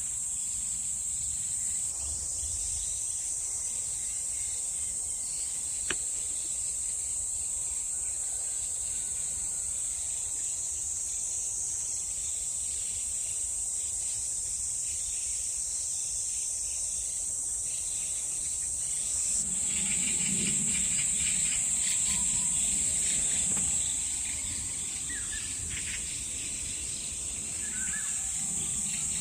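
A steady, high-pitched drone of woodland insects. From about 20 to 24 s a louder patch of rapid crackling and rustling joins in, and a few faint short bird chirps come near the end.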